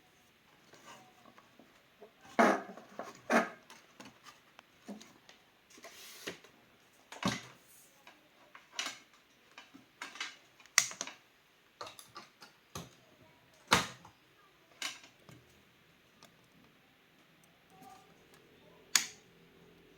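Irregular clicks and knocks of small hard objects being handled, such as tools and parts during repair work, about a dozen spread unevenly. A faint steady hum comes in near the end.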